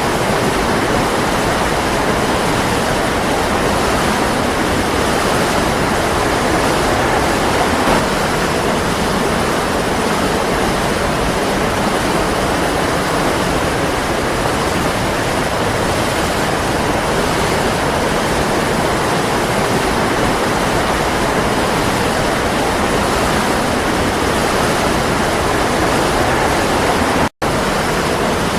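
Waterfall rushing steadily, a constant even roar of falling water. It cuts out for an instant near the end.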